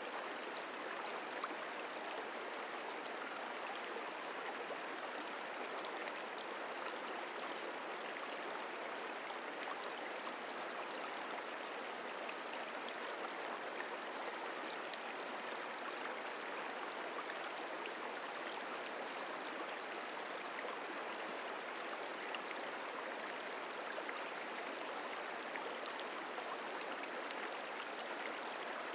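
The Merced River flowing, a steady rushing of water.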